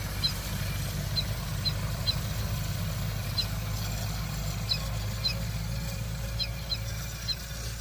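Tractor diesel engine running steadily at a low rumble, with a scatter of short, high chirps over it.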